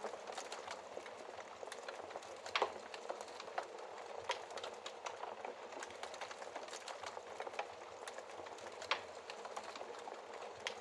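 Wood fire crackling in a fireplace: a steady hiss of burning logs with many small snaps, and two louder pops, one about two and a half seconds in and one near the end.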